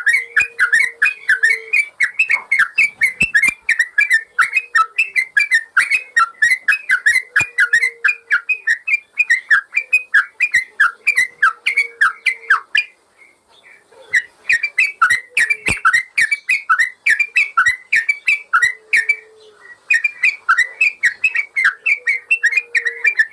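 Yellow-vented bulbul (trucukan) song from a bird-training recording: a fast, unbroken run of short whistled notes, about five a second, pausing briefly about 13 s in and again near 20 s.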